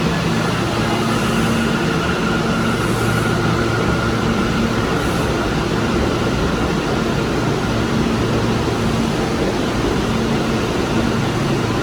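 R179 subway train pulling out of the station: a steady rumble of wheels on rail, with a steady whine through the first half and a low hum that comes and goes.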